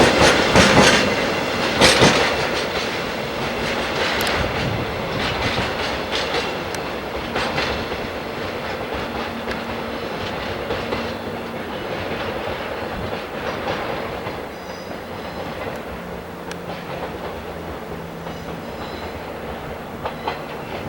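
Freight train of empty oil tank wagons rolling past, its wheels clacking over rail joints, loudest at first and gradually fading as the train moves away.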